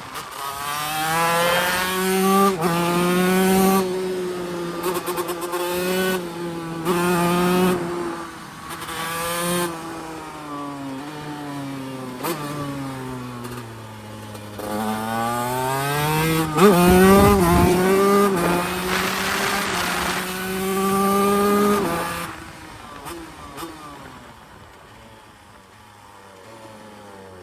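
TM Racing SMR 125 two-stroke single-cylinder supermoto engine, ridden hard at high revs with short dips in pitch every second or two. About halfway through the revs fall away and climb back up, and near the end the engine backs off and drops to a much quieter low note.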